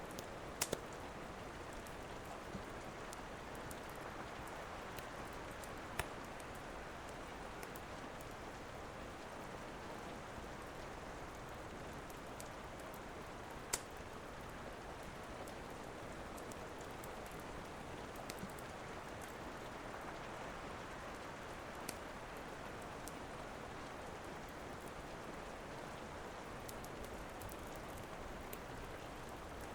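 Steady rain hiss with a few sharp, scattered pops and snaps from a crackling wood fire, the loudest about halfway through.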